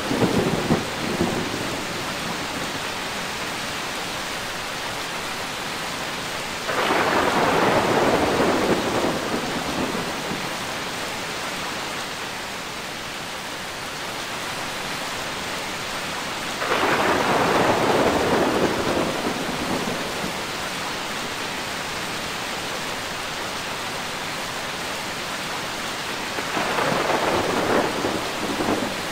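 Steady rain falling through a thunderstorm. Thunder rumbles three times, about ten seconds apart, each starting suddenly and fading over a few seconds, and the tail of an earlier rumble dies away just at the start.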